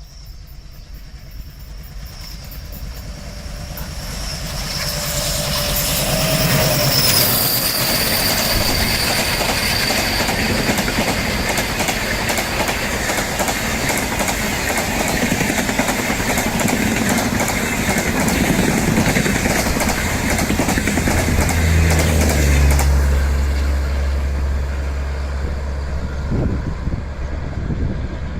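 Indian Railways Humsafar Express passing at speed: the sound builds over the first few seconds, then the coaches' wheels run loud and steady over the rails with clickety-clack, easing off in the last few seconds.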